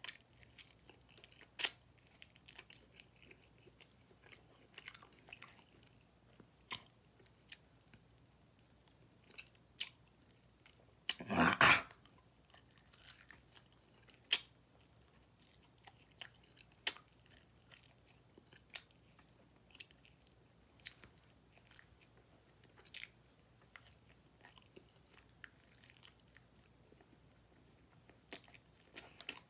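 Close-up chewing of barbecue-sauced pork ribs: wet mouth clicks and smacks scattered every second or two, with one louder, longer mouth sound a little past the middle.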